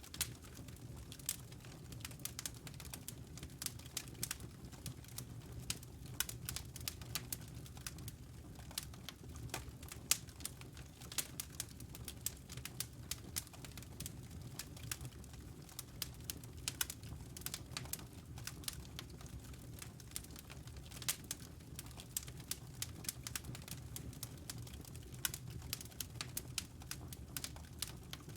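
Wood logs burning in a fireplace: irregular sharp crackles and pops, several a second, over a low steady rumble of the fire.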